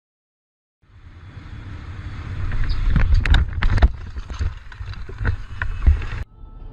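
Rumbling road and wind noise from a moving vehicle, building up, with a cluster of sharp knocks in the middle and two more later, then a sudden cut-off.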